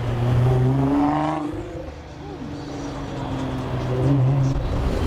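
Motor vehicle engines running in slow cruise traffic. A steady low engine note fades out about a second and a half in, then comes back.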